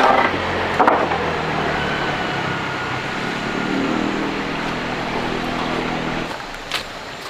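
An engine running steadily, with a couple of sharp knocks near the start, then stopping about six seconds in; a few light clicks follow.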